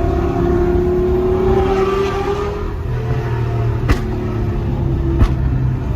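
Lamborghini Gallardo Superleggera's 5.0-litre V10 with aftermarket exhaust running under a light throttle, its pitch rising slightly then easing off about halfway through. Two sharp cracks come near the end, about a second apart.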